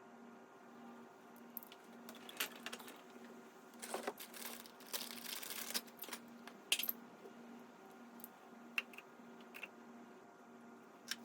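Scattered clicks and light metallic rattles of small parts and tools being handled, with a rustling, crinkling stretch about four to six seconds in, over a faint pulsing hum.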